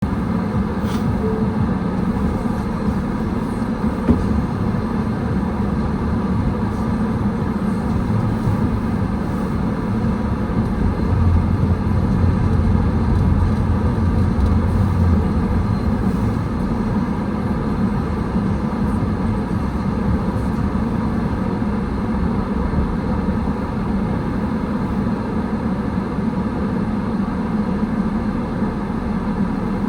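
A car being driven: a steady low rumble of engine and tyres on the road, swelling a little for a few seconds in the middle.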